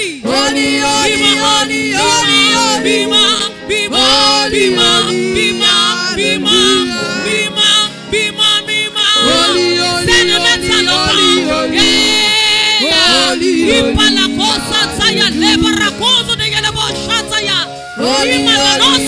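Worship music: voices singing a flowing melody over steady sustained instrumental backing.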